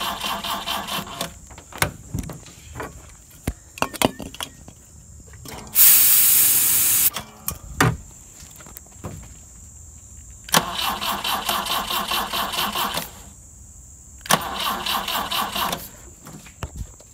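BMW 2002tii four-cylinder engine cranked by its starter in three bursts from a remote starter switch. It has only starting fluid and no fuel pump, with the ignition coil wired straight to the battery, so it does not run on its own. A loud rushing noise comes about six seconds in.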